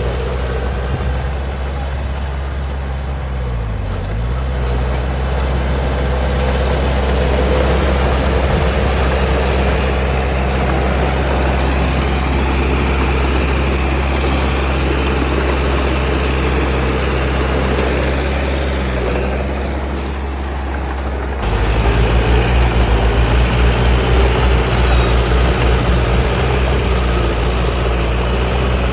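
Heavy diesel engine of a crawler bulldozer running under load. Its pitch dips briefly about four seconds in, then about two thirds of the way through it turns louder with a fast pulsing throb.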